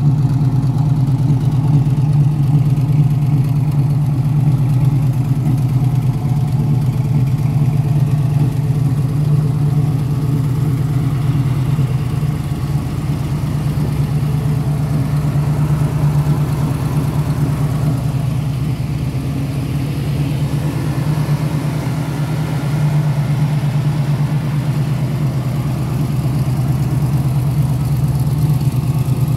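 Engine of a 1981 Oldsmobile Cutlass Brougham idling steadily.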